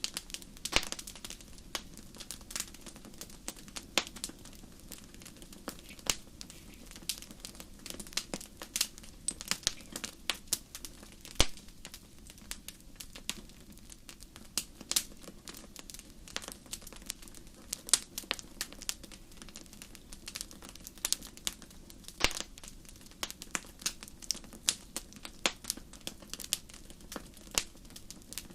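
Wood fire burning in a fireplace, crackling steadily with irregular sharp pops over a low hiss.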